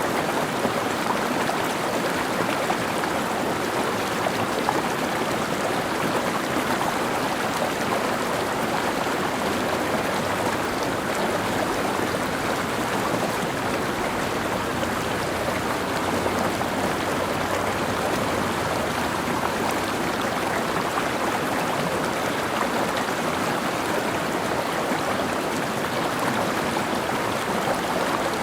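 Mountain stream flowing over rocks, a steady even rush of water with nothing rising or falling.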